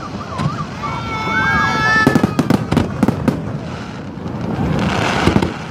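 Aerial fireworks going off in a quick run of sharp bangs and crackles, densest about two seconds in and again near the end.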